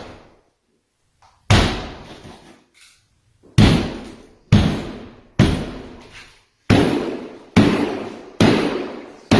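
Hammer blows smashing into a sheetrock wall, about seven heavy strikes roughly a second apart, each with a short ringing decay, breaking through to the insulation inside.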